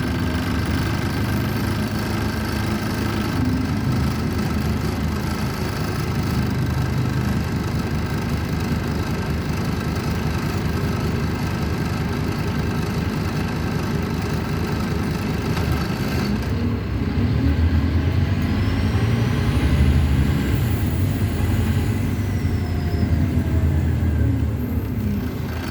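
Scania N230UD bus's five-cylinder diesel engine heard from on board, running steadily. About two-thirds of the way through it works harder and louder, and a turbo whistle rises and falls in pitch.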